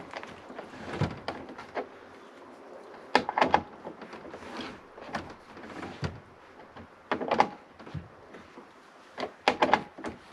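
A run of small clicks, taps and knocks from fitting a new window crank handle and its screw on a truck door, with louder clusters about three, seven and nine seconds in.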